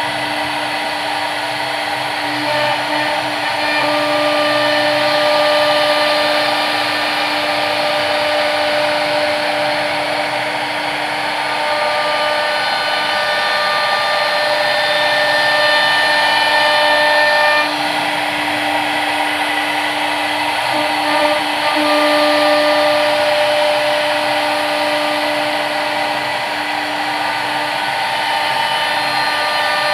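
CNC machine spindle running and cutting: a steady whine over a continuous machining noise, its pitch shifting slightly a few times.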